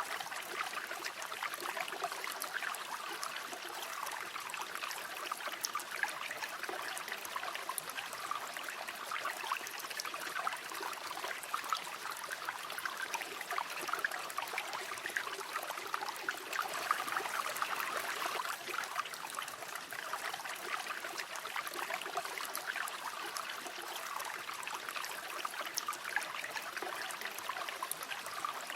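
River water flowing steadily over stones, a continuous babbling and trickling rush.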